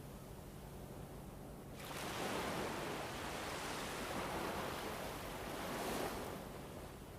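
A soft, steady rush of soundscape noise, such as wind or surf, with no crackles. It swells up suddenly about two seconds in, holds for a few seconds, and dies back down near the end.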